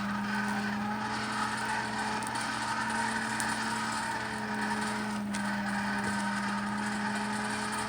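A motor running steadily, its hum wavering slightly in pitch, with one faint click about five seconds in.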